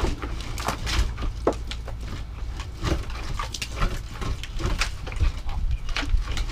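Mini excavator engine running with a steady low drone under irregular sharp knocks and cracks, several a second, as the machine breaks and shifts broken concrete and cinderblock rubble.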